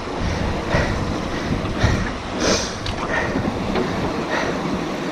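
River water rushing and splashing around an inflatable kayak, with irregular short splashes every second or so and wind buffeting the microphone.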